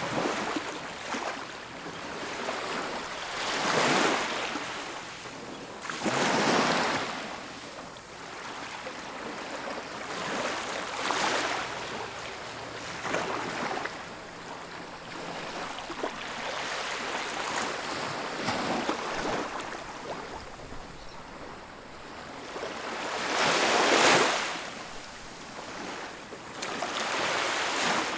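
Ocean waves breaking on a beach: a steady wash of surf with a swell every few seconds, the largest about 24 seconds in.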